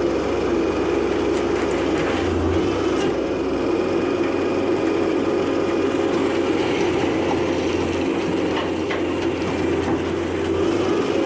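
Diesel-driven hydraulic car baler running steadily: a constant machine drone, with a deep low hum that drops away about three and a half seconds in and a few faint knocks.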